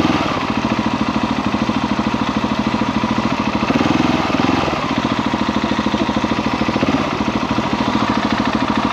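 KTM 690 SMC R's single-cylinder engine running at low, steady revs, an even fast thumping of single firing pulses, briefly a little louder about four seconds in.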